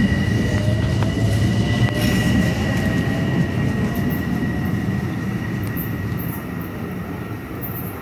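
LIRR M7 electric commuter train moving away from the platform: a low rumble with a steady high whine, fading as it goes.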